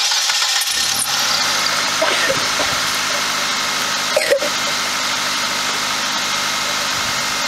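Car petrol engine, lubricated with vegetable oil instead of motor oil, starting up and catching within the first second, then idling steadily.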